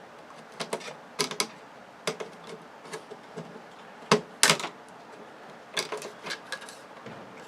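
Irregular clicks and knocks of small hard parts being handled during the teardown of a flat-screen TV, with a pair of louder knocks a little after four seconds in.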